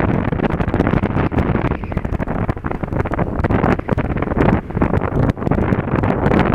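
Wind rushing over an action camera's microphone on a moving Honda Dio scooter, a loud, dense buffeting that swells and dips unevenly.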